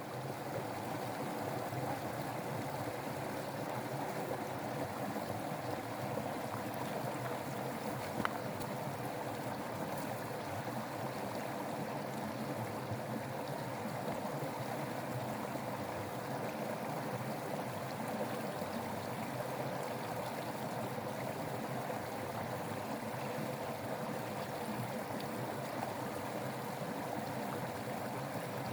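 Steady rush of running water, with one brief light click about eight seconds in.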